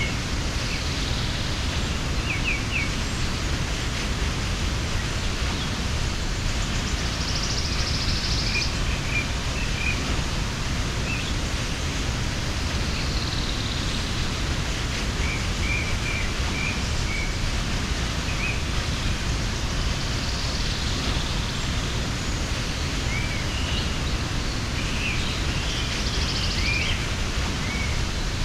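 Steady rush of a mountain waterfall, with small birds chirping briefly now and then over it.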